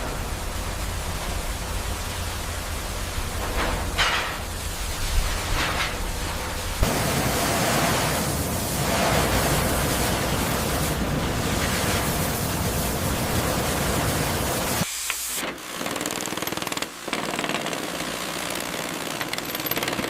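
Steady, loud hissing rush of a high-pressure water jet washing down a rusted steel warship hull. The spray noise shifts abruptly in tone about 7 seconds in and again about 15 seconds in.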